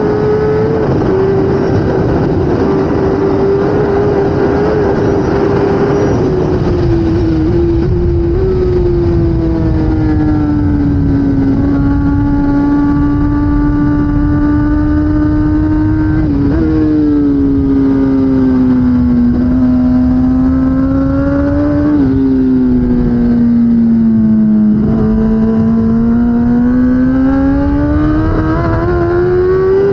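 Inline-four engine of a 2016 Kawasaki ZX10R superbike at racing speed. The note holds high, then sinks and jumps up sharply several times with the gear changes, and climbs again near the end, over a steady rush of noise.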